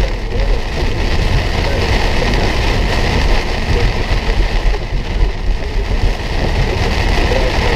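Steady road and engine rumble heard from inside a moving vehicle, with an even hiss over it.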